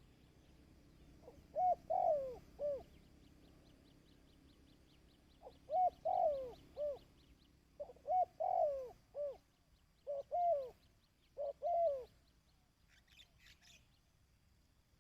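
A dove cooing repeatedly in five short phrases of low, falling coos, used as a lure call for wild doves. A faint, fast, high ticking runs underneath during the first half, and a brief burst of higher chirps comes near the end.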